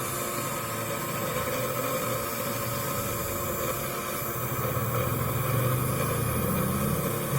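Small motor of a homemade float-making machine running steadily with a hum and hiss. It gets a little louder about five seconds in.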